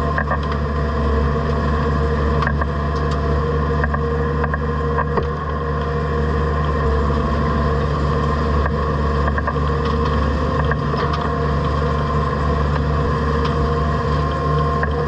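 Case IH Puma tractor engine running steadily under PTO load, driving a bale processor that is shredding a round hay bale. Scattered ticks and knocks from the machine run through it.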